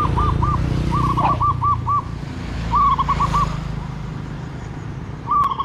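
A bird calling in bursts of quick, repeated whistled notes, four to six at a time, over the steady low hum of an engine running.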